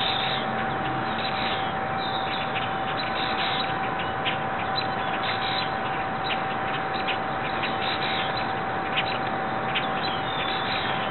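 Steady hiss with a constant high-pitched tone running through it, and many short bird chirps scattered over the top.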